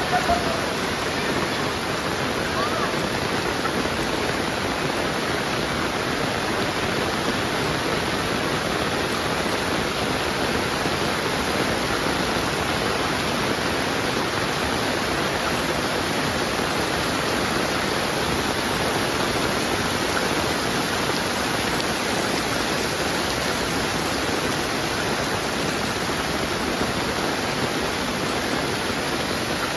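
Heavy rain pouring steadily, a dense, even hiss of water with no letup.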